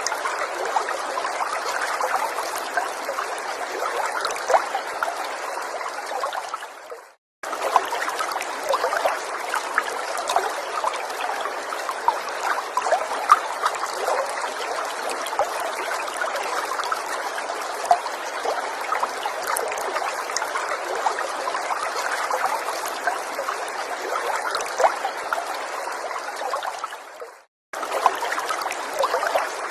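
A gentle water stream trickling steadily. Twice it fades and drops out to silence for a moment, after about seven seconds and again near the end, then comes straight back.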